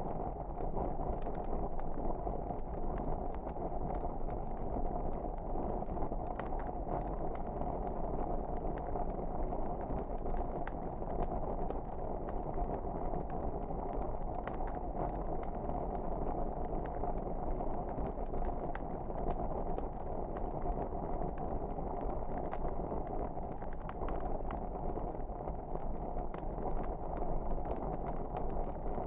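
Wood fire burning in a fireplace: a steady low rushing of the flames with many small sharp crackles and pops scattered throughout.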